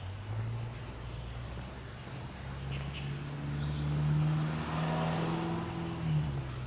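A car's engine running close by, growing louder to a peak about four seconds in and easing off near the end.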